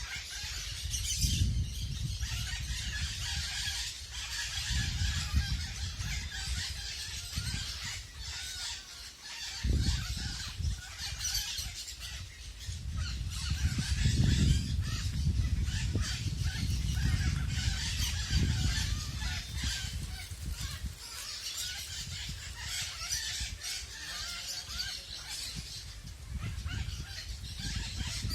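A flock of maracanãs (small parrots) and parakeets calling all at once, a constant squawking and screeching chatter. Low gusts of wind rumble on the microphone now and then.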